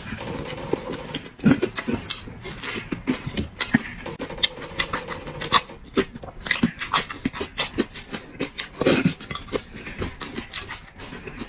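A person chewing and eating close to the microphone: a stream of irregular wet mouth clicks and smacks, with a few heavier smacks about a second and a half in and around nine seconds in.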